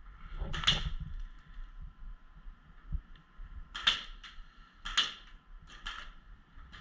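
Airsoft gun firing about five single shots at irregular intervals, each a short sharp crack, over a faint steady background hum.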